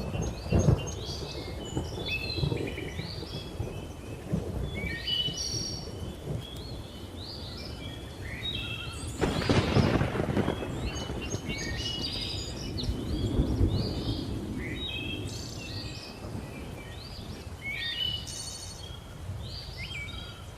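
Thunderstorm ambience: low thunder rumbling, with one louder roll of thunder about nine seconds in, under a steady chorus of birds chirping and whistling short repeated calls.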